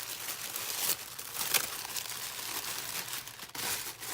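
Tissue paper crinkling and rustling as it is handled and unfolded, in a continuous run of small crackles.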